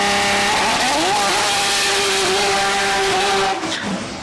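A drag car's engine at full throttle down the strip. Its pitch climbs, dips once and climbs again at a gear shift about half a second in, then holds at high revs before falling away near the end.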